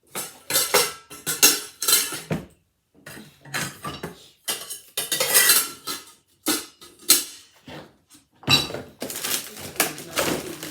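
Dishes, pots and utensils clattering as they are handled, moved and set down, in irregular bursts of knocks and clinks with short pauses between.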